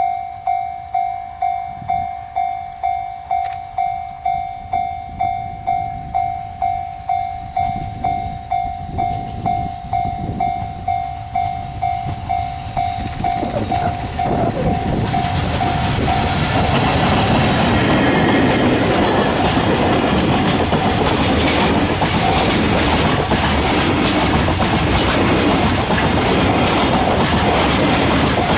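A railway level-crossing warning bell rings steadily, about two strokes a second. From about halfway, an EF65 electric locomotive hauling a container freight train comes up and passes with a rising rumble and wheel clatter that drowns out the bell.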